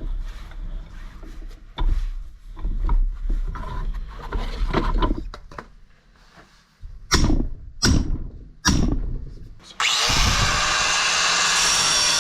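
Irregular clanks of metal parts being handled, with three sharp knocks a few seconds before the end. Near the end a power cutting tool starts and runs steadily, cutting off a piece of metal.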